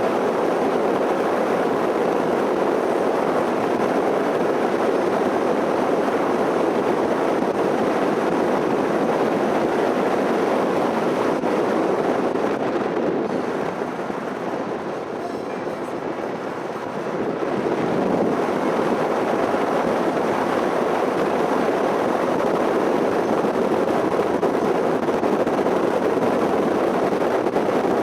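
Steady rush of wind and road noise from a moving motorcycle, with no clear engine note, easing slightly for a few seconds past the middle.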